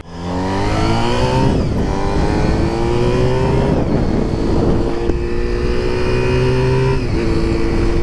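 Honda road motorcycle engine accelerating, its note rising and then dropping back at gear changes, then holding a steady pitch at cruising speed with road and wind noise.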